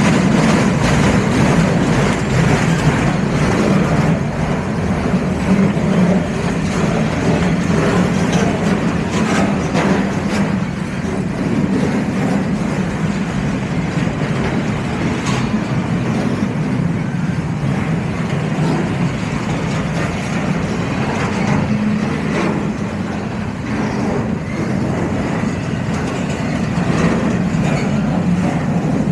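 Freight train cars rolling past: a loud, steady rumble of wheels on rail, with scattered clicks as wheels cross rail joints.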